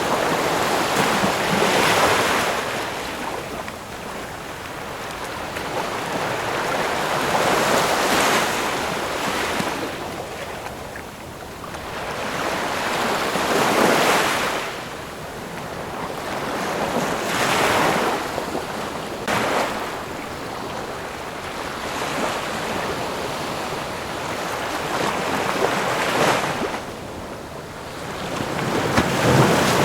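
Ocean waves breaking and washing on a shore, the surf swelling and fading in turn about every four to six seconds, with a stronger wave breaking near the end.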